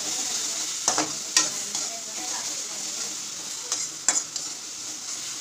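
Spice masala paste sizzling in hot oil in a metal kadai as it is stirred with a slotted metal spatula. The spatula knocks and scrapes against the pan four times, in two pairs.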